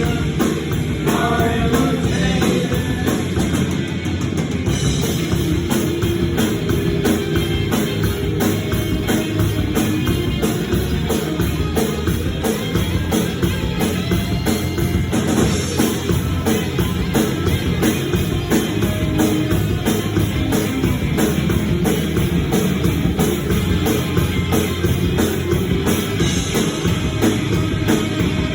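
Rock band's demo recording playing, with a steady driving drum kit and guitar.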